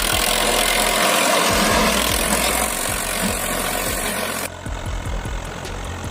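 Tractor engine sound idling, with a steady hiss over it that drops away about four and a half seconds in.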